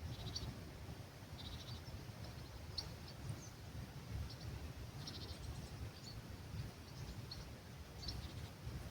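Small birds calling in scattered short, high chirps, with a few brief rapid trills, over a steady low rumble of breeze.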